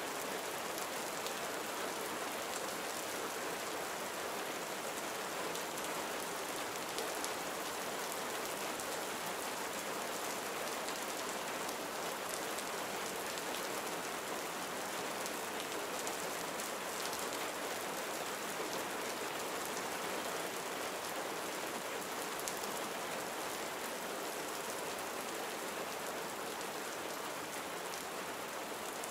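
Gentle steady rain falling, a continuous even hiss of many small drops pattering on surfaces.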